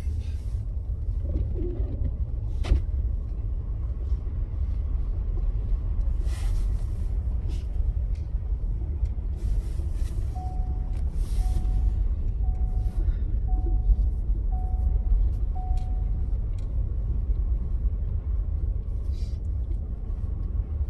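Low steady rumble of a four-wheel-drive Ford F-150 driving on a snow-covered road, heard from inside the cab, with a few clicks and knocks. Partway through, a short dashboard chime sounds six times, about once a second.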